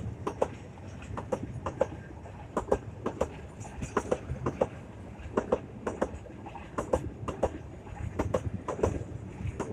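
Container freight train wagons rolling past, a steady rumble with the wheels clacking over rail joints a few times a second in an uneven rhythm.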